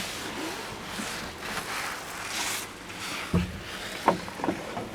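Steady hiss of heavy rain, with a low thump about two-thirds of the way through and a few light knocks near the end.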